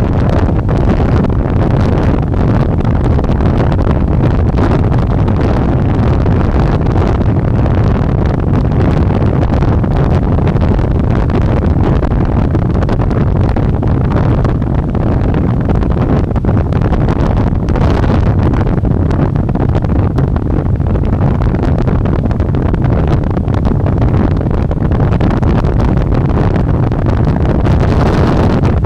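Steady, loud wind buffeting the microphone of a rider moving at speed on an electric bike, a dense low rumble with no engine note.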